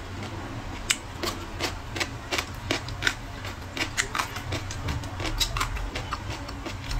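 Close-miked crunchy chewing of crisp food: irregular sharp crunches, several a second, over a low steady hum.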